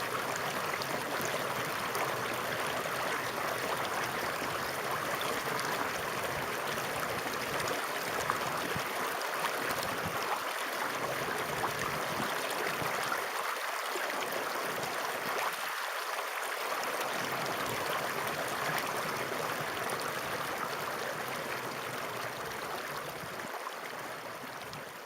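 Flowing water running steadily in an even rushing wash, fading out near the end.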